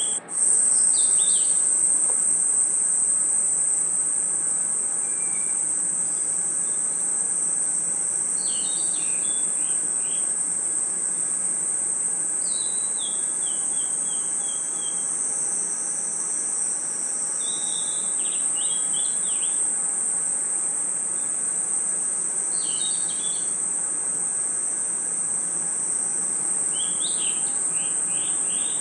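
Crickets and other night insects trilling in one steady, high-pitched chorus. Short, quick runs of falling chirps come every four to five seconds. The sound drops out briefly just after the start.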